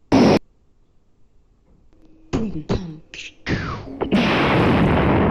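A short, loud blast of noise, then a few untranscribed vocal sounds, then a long, loud, distorted noise blast starting about four seconds in.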